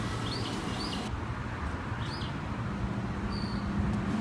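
Outdoor background: a steady low hum with a few short, faint bird chirps scattered through it.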